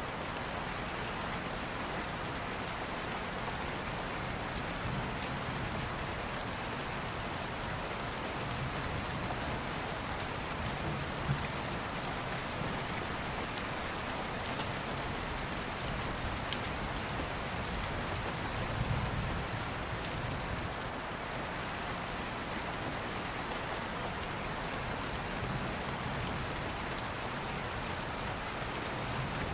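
Steady rain pattering, with a few sharp crackles from an open wood fire and now and then a low rumble of distant thunder.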